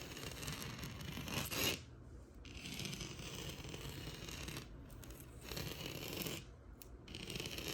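Scratching on a textured wall: stretches of rough, rasping scratching broken by brief pauses, three times.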